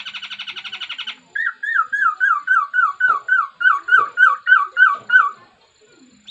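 Laughingthrush singing: a fast trill of rapidly repeated notes, then a series of loud, down-slurred whistled notes at about three or four a second that stops a second before the end.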